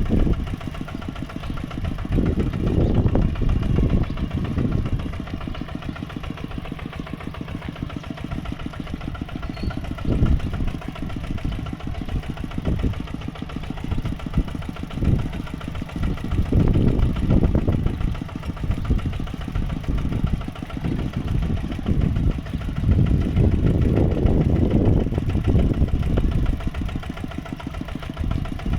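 Mini tractor's engine running with a steady, rapid chugging, swelling louder and easing back every few seconds.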